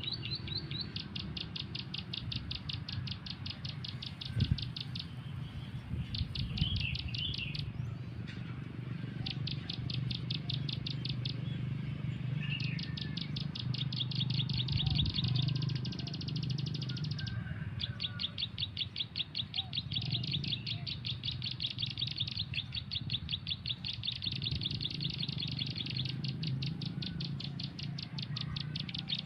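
Bird call recording played on a phone as a trapping lure: runs of rapid, evenly repeated high chirping notes that start and stop abruptly, with short breaks between runs. A few separate softer chirps and a steady low rumble sit underneath.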